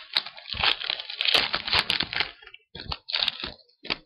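Wrapper of a baseball card pack being torn open and crinkled by hand: dense crackling for about two seconds, then a few separate crinkles.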